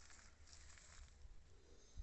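Near silence: a faint low rumble and hiss.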